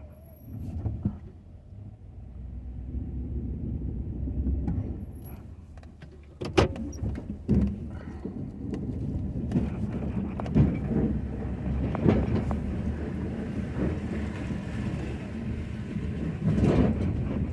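Ford F-250 pickup with a snow plow: the engine's steady low rumble, getting louder about six and a half seconds in, with scattered sharp knocks and clunks over it.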